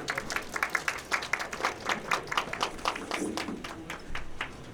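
Small live-venue audience clapping at the end of a song, many hands at first, thinning out near the end.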